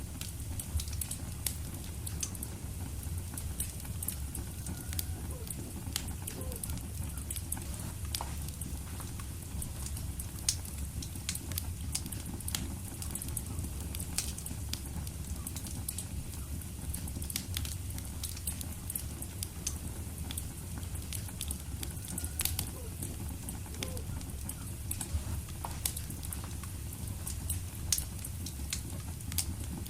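Wood fire burning in a fireplace: a low steady rumble of flames with frequent sharp crackles and pops.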